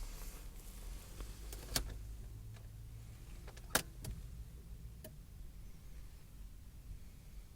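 Skoda Roomster's 1.4 TDI three-cylinder diesel idling with a low, steady hum seconds after a cold start at about −18 °C. A few sharp clicks come about two and four seconds in.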